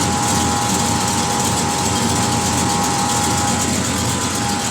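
Chevrolet El Camino's V8 with an LT4 hot cam idling, the cam's choppy lope audible in the exhaust. A steady high whine runs alongside the rumble.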